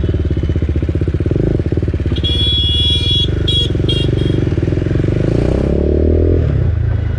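BMW G310R's single-cylinder engine running through an aftermarket Akrapovic full-system exhaust while riding. Its pitch rises briefly near the end. A high-pitched horn beeps in the middle, one long beep followed by a couple of short ones.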